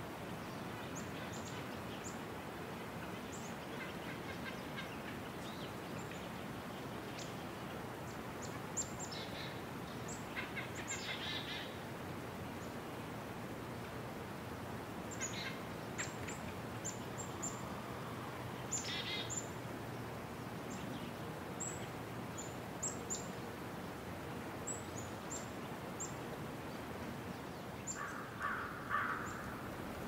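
Wild songbirds calling: many short, high chirps scattered throughout, with a few quick downward-sweeping calls and a brief buzzy burst of notes near the end, over a steady outdoor background hiss.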